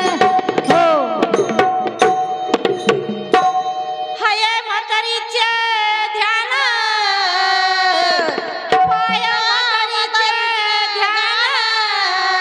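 Marathi bhajan music: tabla strokes, some with gliding bass pitches, over a steady held tone for the first few seconds, then a woman's singing voice takes up a long, ornamented, wavering line over the accompaniment.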